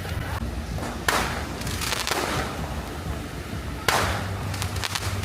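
Distant fireworks: two sharp bangs, one about a second in and one near the end, each followed by a crackling patter that fades away.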